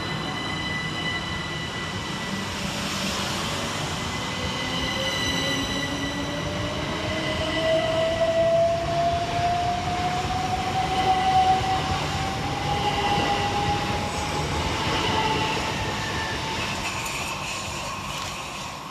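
Two coupled Class 377 Electrostar electric multiple units pulling out, their traction motor whine rising steadily in pitch from about four seconds in until about fifteen seconds, over the rumble of the wheels on the track.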